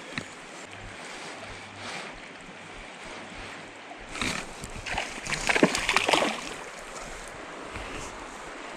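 Hooked trout splashing at the water's surface as it is played in, in a run of splashes from about four seconds in to six and a half seconds in, over the steady rush of the creek.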